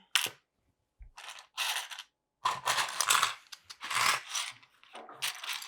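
Loose plastic LEGO pieces rattling and clicking together as someone rummages through them for a piece, in irregular bursts.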